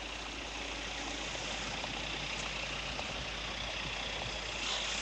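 Taxi's car engine idling at the kerb, over a steady wash of street traffic noise.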